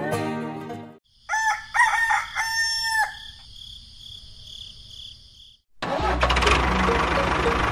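Background music stops about a second in, then a rooster crows once, with a steady high whine behind it. About six seconds in, a loud motor starts running with a low, steady hum.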